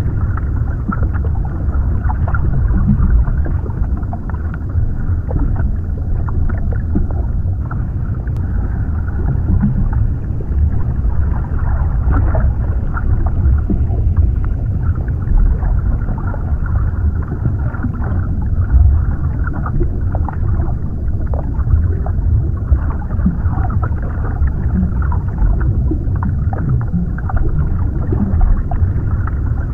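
Continuous underwater ambience: a deep, muffled rumble of moving water with scattered small bubbling pops and crackles.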